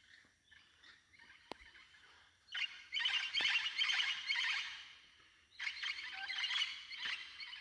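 Forest birds calling: faint scattered calls, then a loud chattering burst of many rapid overlapping calls about two and a half seconds in, lasting a couple of seconds, and a second burst about a second after it ends.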